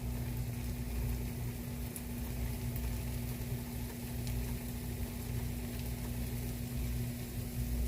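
Pancake batter sizzling in oil in a frying pan, with a few faint crackles, over a steady low hum.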